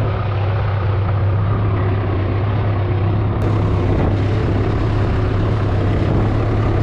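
Tractor engine running steadily with a strong low hum, mixed with the rushing of a flooded river.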